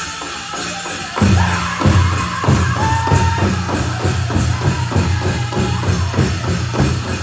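Powwow drum group drumming a fast, steady beat on a big drum while singers sing a high-pitched song. About a second in, the drumming and singing come in much louder.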